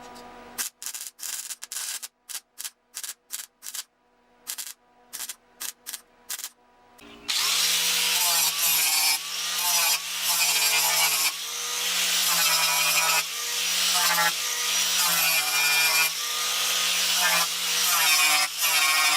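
About a dozen short, separate bursts with silent gaps between them, then a handheld power sander running continuously on the steel dash panel, its pitch dipping and recovering as it is pressed into the metal to strip rust and paint.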